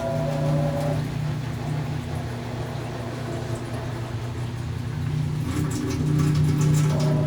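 Panasonic 12 kg top-loading washing machine running through its cycle: a steady motor hum, with a higher whine that stops about a second in and comes back near the end.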